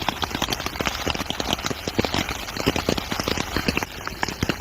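Heavy rain hitting fabric close overhead: a dense, irregular patter of many separate drop impacts.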